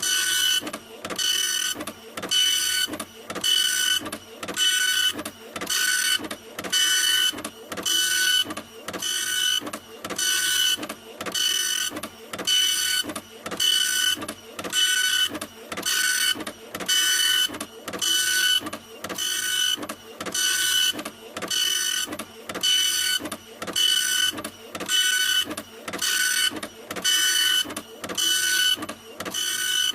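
Printer running continuously, its mechanism cycling about once a second, each pass a high motor whine followed by a short dip.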